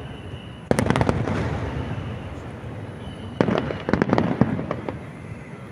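Aerial fireworks shells bursting: a cluster of sharp bangs about a second in and another about three and a half seconds in, each fading away in a rumble.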